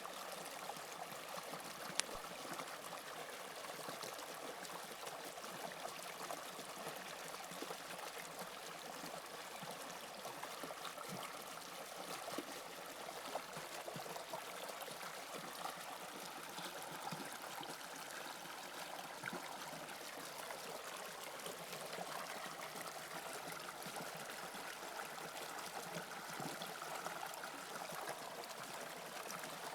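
Toronto Line 2 subway train running, a steady rushing hiss with a faint whine that bends in pitch about halfway through. There is a single sharp click about two seconds in.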